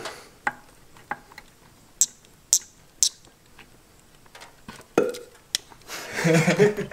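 Sharp, separate clicks and knocks of hand tools and metal hose clamps against engine-bay parts while a stock turbo bypass valve and its hoses are being freed, the loudest knock about five seconds in.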